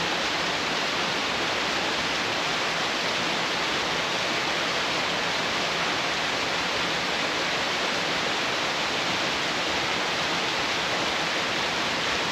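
Steady rushing of a swollen creek running high and muddy after heavy rain.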